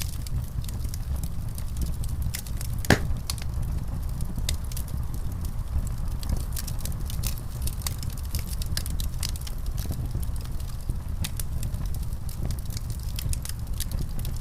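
Wood fire crackling in a fireplace: a steady low rumble with scattered sharp pops and crackles, one pop louder than the rest about three seconds in.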